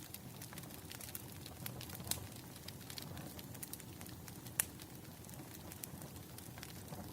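Burning firewood crackling: irregular sharp pops and snaps over a low steady rumble, with the loudest pop about four and a half seconds in.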